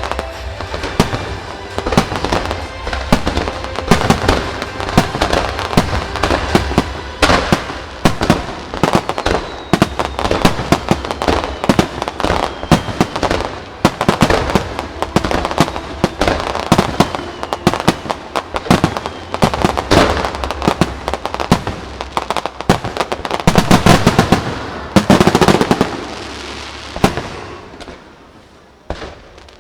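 Aerial fireworks bursting in a dense, rapid barrage of bangs and crackles, building to the loudest run of bursts about 24 seconds in, then thinning out and fading near the end.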